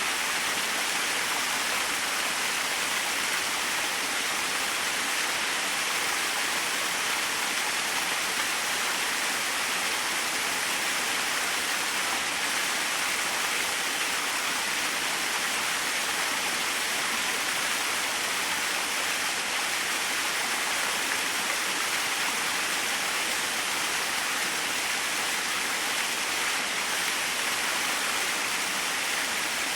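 Small waterfall splashing steadily, an even rushing hiss of falling water with no change in level.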